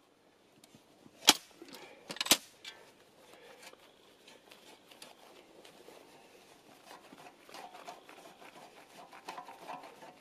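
Snow being shovelled: two sharp knocks about a second apart, then a run of small crunches and scrapes.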